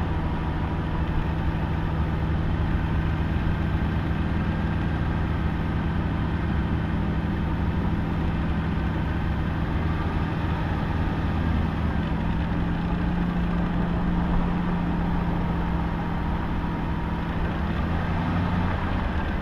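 Aston Martin engine running at low revs with a steady low drone as the car creeps forward at walking pace, heard through a camera mounted on its bonnet.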